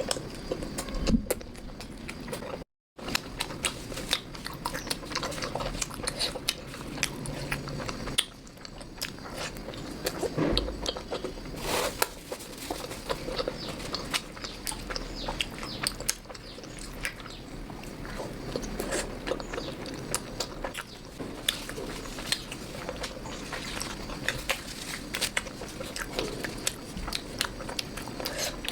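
Close-miked chewing and mouth sounds of a person eating: a constant run of short sharp smacks and clicks, with a brief cut to silence about three seconds in.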